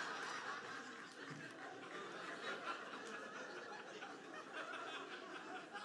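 Audience laughing, the laughter slowly dying down.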